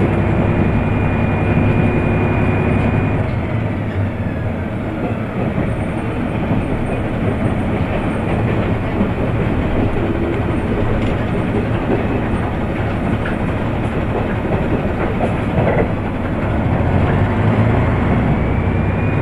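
KiHa 100 series diesel railcar running, heard from inside the car: a steady engine drone and wheel rumble with a few rail-joint clicks. A high whine falls away about three seconds in, and a rising whine comes in near the end.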